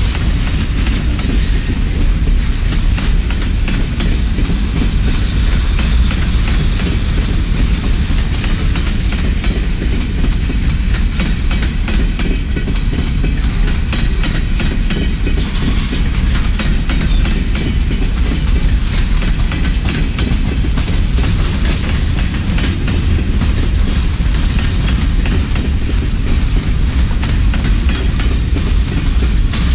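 Empty coal hopper cars of a freight train rolling past close by: a steady, loud low rumble of steel wheels on rail, with frequent sharp clicks throughout.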